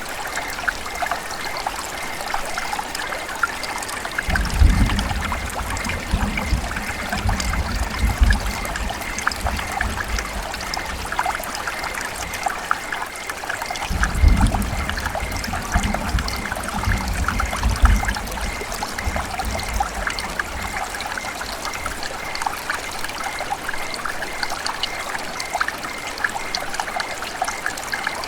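River water running and trickling steadily, with two stretches of deeper low rumble, about four seconds in and again about fourteen seconds in.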